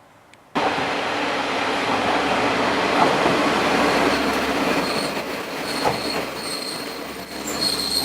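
KiHa 47 diesel railcar running, heard from inside the carriage: a dense rumble of wheels and engine that cuts in suddenly about half a second in. From about the middle a thin, high wheel squeal comes and goes, growing stronger near the end.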